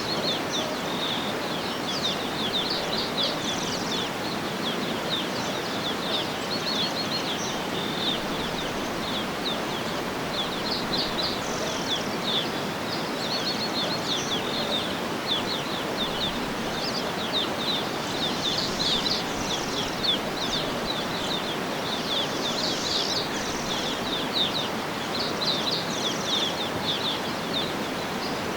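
Many small birds chirping and trilling in quick, overlapping calls over a steady background hiss of outdoor ambience.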